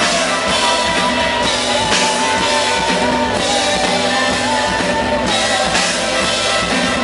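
Live rock band playing: drum kit and guitars, with a held, wavering melody line over them.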